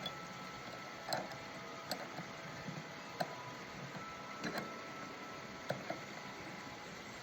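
Scattered light clicks and taps at irregular intervals, about half a dozen, from hand tools and hands working on a lawn mower's battery terminals, over a steady low hiss.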